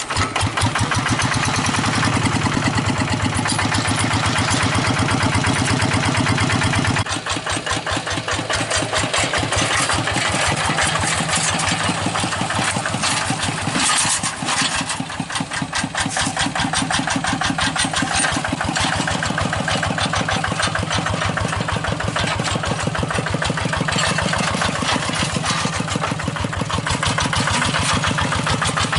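Engine of a hand-cranked rice-field tractor running just after starting, a steady rapid chugging. Its low end drops away about seven seconds in, and the sound dips briefly around fourteen seconds.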